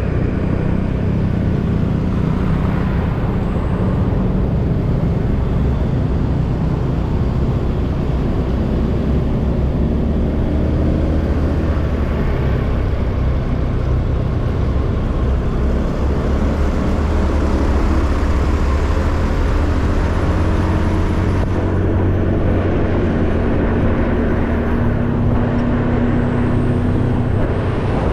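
A motorbike riding along a road: its engine runs steadily under a loud, even low rumble of wind and road noise.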